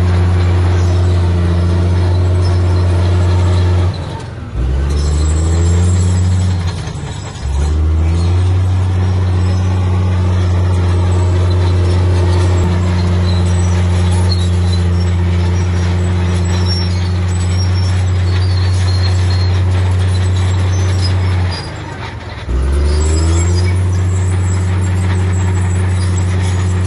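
Heavy diesel engine of earth-moving machinery running hard under load. Its note drops off briefly three times, about four seconds in, around seven seconds and near twenty-two seconds, and each time revs back up with a rising pitch.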